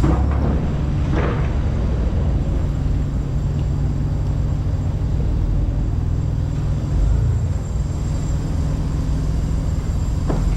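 Diesel truck engine idling with a steady low rumble, with a couple of short sounds about a second in and near the end.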